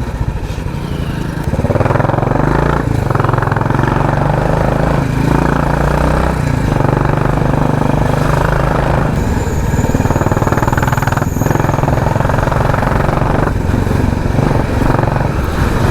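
Royal Enfield Classic 350 single-cylinder engine running loud through an aftermarket 'helicopter' exhaust. It gets louder about two seconds in and then holds steady, with brief dips every couple of seconds.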